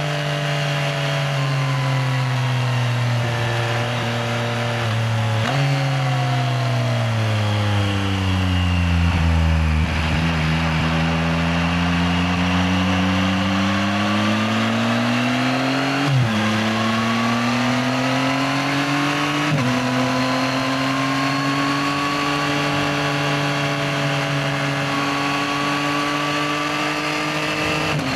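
Yamaha XSR900's inline three-cylinder engine under way. Its pitch falls as the bike slows, with a sudden step about five seconds in, then climbs steadily as it pulls away, stepping abruptly at gear changes around sixteen and twenty seconds in.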